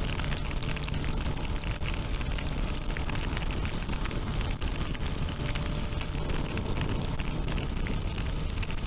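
Wind buffeting on the microphone of a moving motorcycle, with the Suzuki GSX-R 1000's inline-four engine running steadily underneath.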